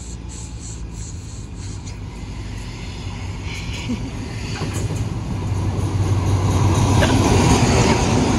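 Diesel train running with a steady low engine hum that grows louder over the last few seconds.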